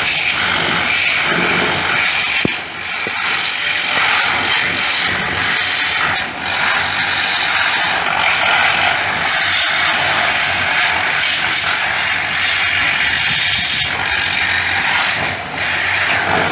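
High-pressure washer jet spraying water, a loud steady hiss that dips briefly three times.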